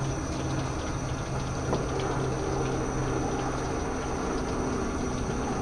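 Steady mechanical hum of a motor running, with a few faint clicks.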